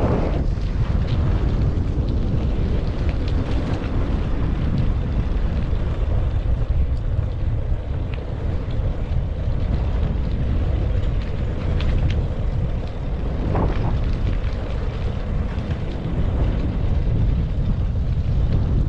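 Wind buffeting a moving GoPro's microphone during a bike ride: a steady, loud low rumble.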